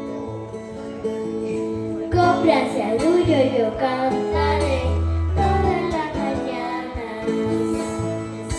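A choir singing with instrumental accompaniment. The sung voices come in about two seconds in over sustained accompaniment notes, with a deep bass note held near the middle.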